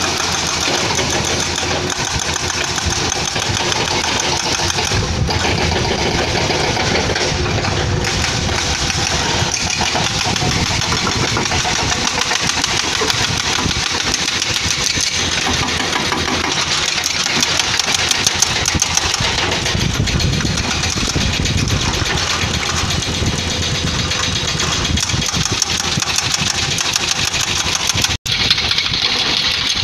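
Excavator's diesel engine running under load while its hydraulic breaker hammers rock in rapid, evenly repeated blows.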